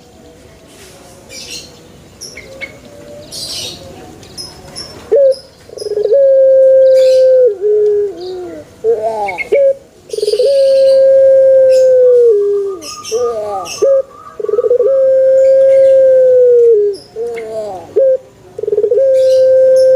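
Male Barbary dove (burung puter) cooing: four long drawn-out coos, each held steady and then dropping in pitch at the end, with short quick rising-and-falling notes between them. The first few seconds are quieter, with only faint high chirps.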